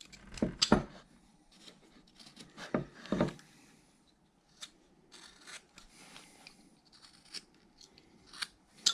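A hand carving tool slicing and scraping wood in short, separate cuts while rounding a carved mitten. The strongest cuts come in the first few seconds, with lighter ones later.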